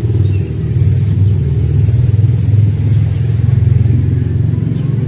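A small engine running steadily nearby: a loud, even low rumble of rapid firing pulses. A few faint bird chirps come through above it.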